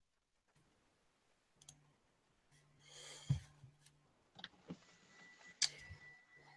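Faint scattered clicks and two louder knocks, about three and five and a half seconds in, over a low hum.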